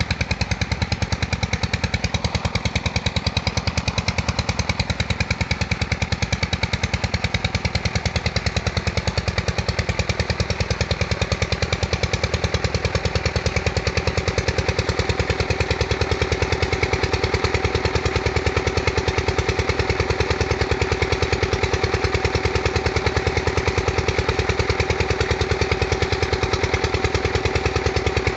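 Usha single-cylinder diesel engine running steadily at a constant speed while driving an irrigation water pump, with an even, rapid beat. A steady tone grows stronger about halfway through.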